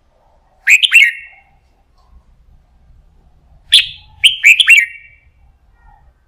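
Red-whiskered bulbul singing two short phrases of quick, bright whistled notes, about three seconds apart.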